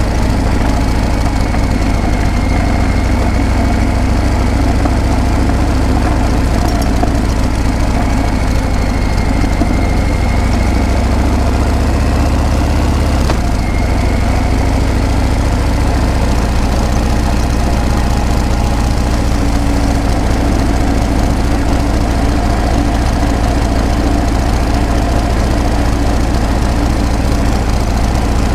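Harley-Davidson Breakout's V-twin engine and exhaust running steadily with a deep, even, pulsing beat.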